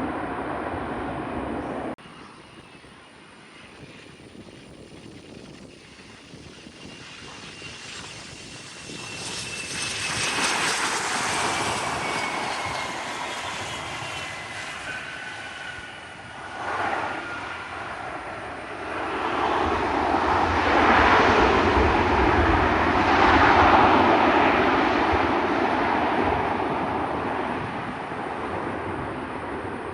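Private jet passing the airfield: a high turbine whine slowly falls in pitch, then a louder rushing engine noise with a low rumble swells about twenty seconds in and fades away. A different steady noise cuts off abruptly about two seconds in.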